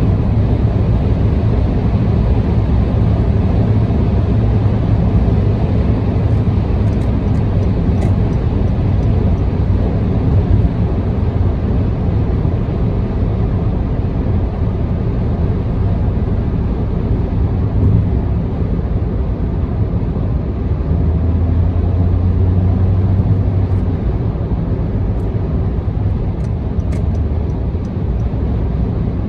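Car driving at expressway speed: a steady drone of tyre and engine noise, with a deeper hum that swells for a few seconds near the end.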